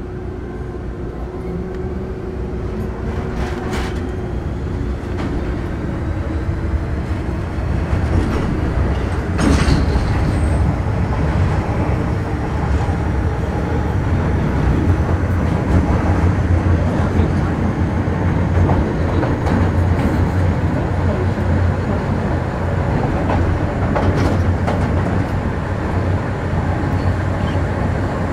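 MTR Metro Cammell M-Train (GEC GTO chopper EMU) heard from on board, gathering speed, with steady wheel-and-rail rumble that grows louder over the first ten seconds and then holds. Faint sliding traction tones sit above it, and a few sharp clicks come from track joints or points.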